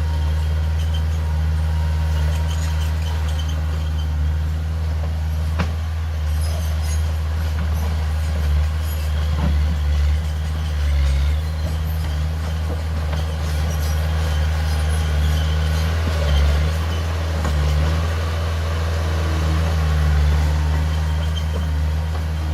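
Heavy diesel engine of earthmoving machinery running steadily with a low drone, with a single sharp knock about five and a half seconds in.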